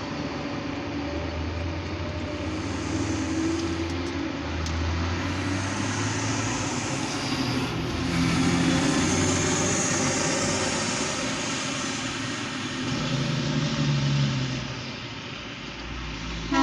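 Diesel locomotive engines of light power running, a steady low rumble under a wide hiss, swelling louder around the middle and again near the end.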